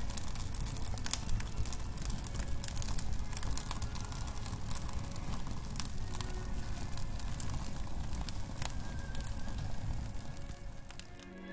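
Vegetation fire crackling, with many irregular sharp pops over a low rumble. It fades away near the end.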